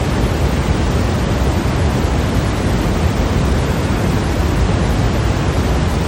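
Steady synthetic white noise: a constant, unchanging hiss with a fuller, rushing low end.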